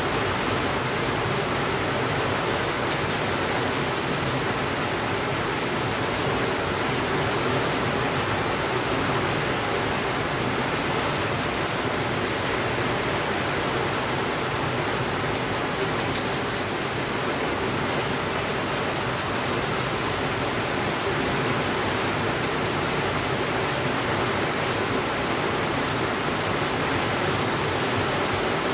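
Steady rainfall, an unbroken even hiss with no change in level, and a few faint clicks scattered through it.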